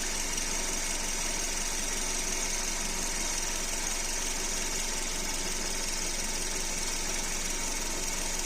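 Car engine idling with a steady high-pitched squeak from the air-conditioning belt's tensioner pulley.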